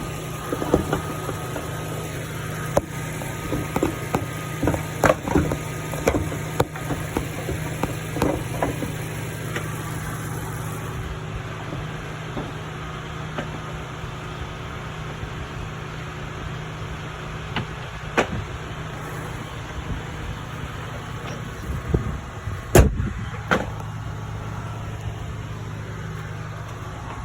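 A 2022 Mazda CX-3's four-cylinder engine idling steadily, with scattered clicks and knocks in the first part and a single sharp bang about three-quarters of the way through.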